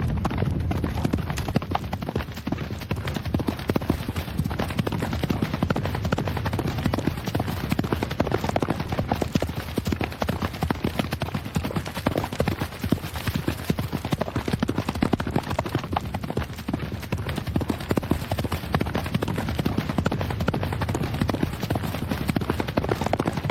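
Racehorses' hooves striking a dirt track, a dense, unbroken run of hoofbeats.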